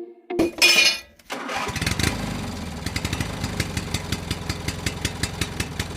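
Mini tractor engine starting: a short loud rushing burst, then the engine catches and runs steadily with an even ticking, about five ticks a second.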